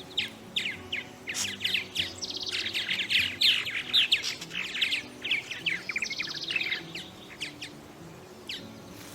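A purple martin colony chirping: many short, downward-sweeping calls overlap thickly, then thin out to scattered chirps near the end.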